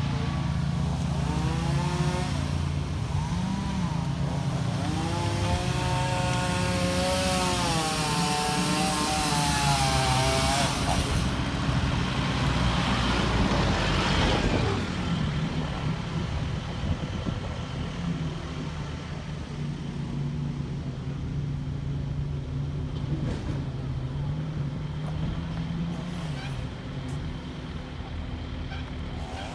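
A vehicle's engine running steadily with road noise. For several seconds in the first half, a pitched sound wavers up and down over it, and the whole thing grows quieter about halfway through.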